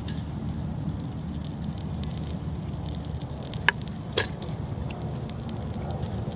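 Wood fire burning in a campfire stand, a low steady rumble under scattered small crackles, with two sharper pops about four seconds in.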